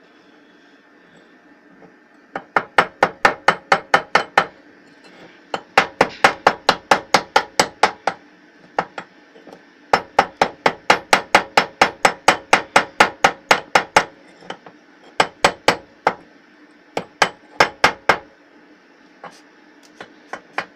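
Hammer knocking slag off a fresh weld bead on steel: quick, sharp taps about five a second, in several bursts with short pauses between them.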